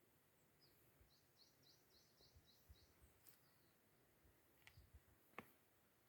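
Faint bird calls: a quick run of about seven short, high chirps lasting under two seconds, starting about a second in, over quiet outdoor background. A few faint sharp clicks follow later.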